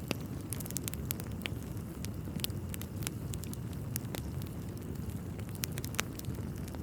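Wood fire crackling in a fireplace: a steady low rumble of burning logs with frequent sharp, irregular pops and snaps.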